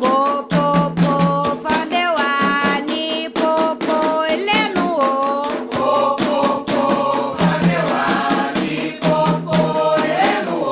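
Voices singing a Yoruba-language ritual chant together over a steady, driving percussion rhythm of many quick strikes.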